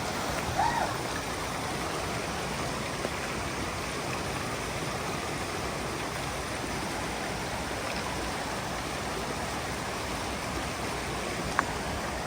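Mountain stream rushing steadily over boulders in a rocky gorge. A brief high pitched sound just under a second in and a single sharp click near the end.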